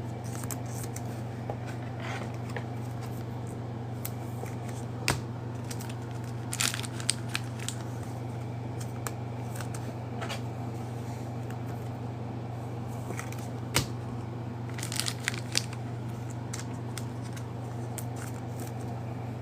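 Trading card packaging being handled: a few scattered crinkles, rustles and sharp taps, clustered about five to seven seconds in and again around fourteen to fifteen seconds, over a steady low hum.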